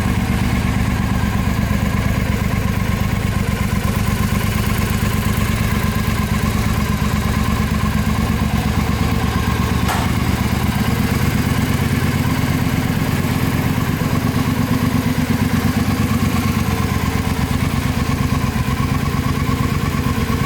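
Triumph America's parallel-twin engine idling steadily, with one faint click about halfway through.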